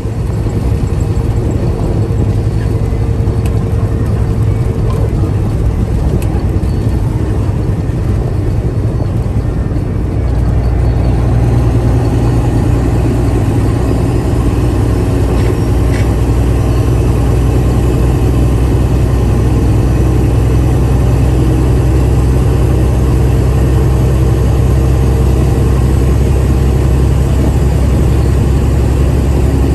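Steady engine and road noise of a vehicle under way, the low rumble growing louder about ten seconds in.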